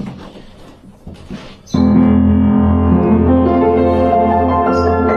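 Faint knocks and handling noise, then about a second and a half in, piano music starts abruptly and goes on with sustained, overlapping notes.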